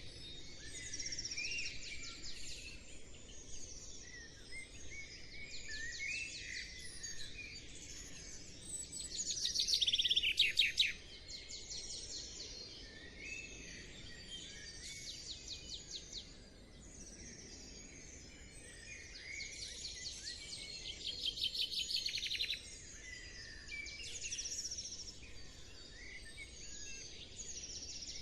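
Several small songbirds chirping and twittering, with a louder, fast trill twice, about ten seconds in and again about twenty seconds in.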